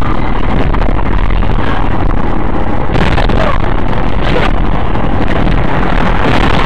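Steady, loud rumble of a car in motion: road and wind noise with a heavy low end, brightening in the upper range about three seconds in.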